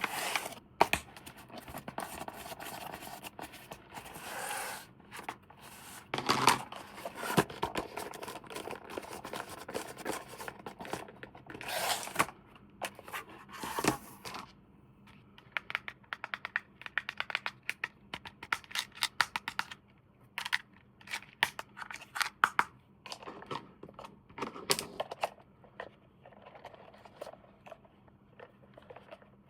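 Toy packaging being handled and opened: tearing and crinkling of plastic and cardboard with scrapes, then a run of sharp clicks and taps past the middle.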